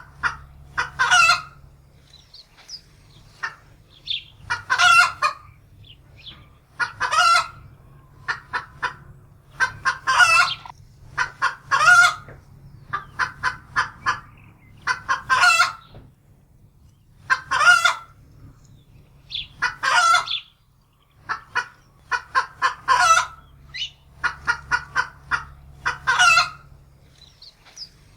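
Domestic hen cackling in alarm: runs of quick short clucks, each ending in a loud drawn-out squawk, repeated again and again.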